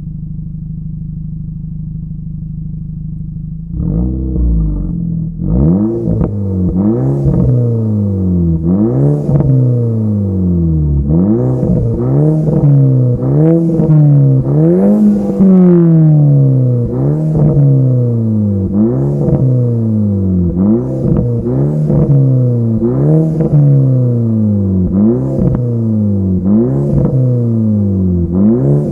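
Mk5 Golf GTI's 2.0 TFSI turbocharged four-cylinder, fitted with an induction kit and a custom resonator and muffler with 100 mm tips, idling steadily. About four seconds in it starts being blipped over and over, roughly once a second: each rev climbs quickly and then falls back, with a sharp crack at each blip.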